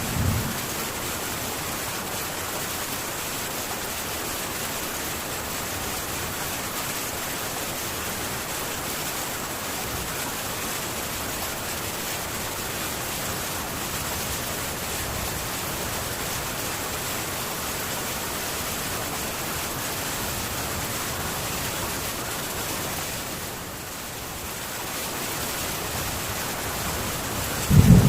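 Heavy rain falling steadily on a metal tin roof, a dense even hiss. The tail of a thunder rumble fades out at the very start, and the rain eases slightly for a moment near the end.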